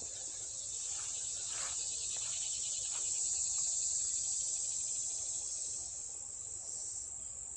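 Chorus of insects, crickets, trilling steadily at a high pitch, swelling a little in the middle.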